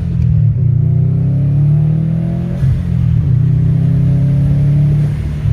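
Subaru WRX STI's turbocharged flat-four running through an Invidia R400 cat-back exhaust, its note climbing and shifting in pitch as it is revved or accelerated, with a break in the rise about two and a half seconds in.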